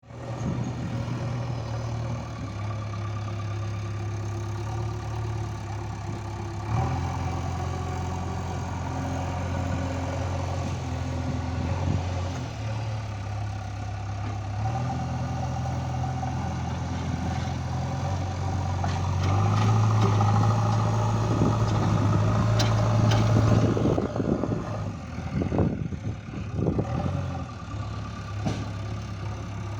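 JCB 3DX backhoe loader's diesel engine running under changing load, its speed stepping up and down several times as the machine works. A run of sharp knocks and clanks comes near the end.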